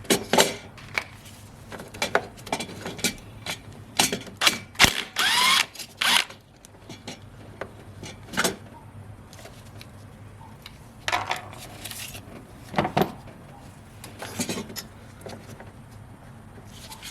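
Hand tools working 8 mm bolts: irregular clicks, clinks and short rattling bursts of a socket tool on metal, with a brief rising squeak about five seconds in.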